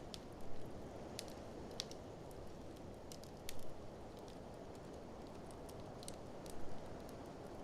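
Wood fire crackling, with frequent sharp snaps and three louder pops spaced about three seconds apart, over a steady low rush of blizzard wind.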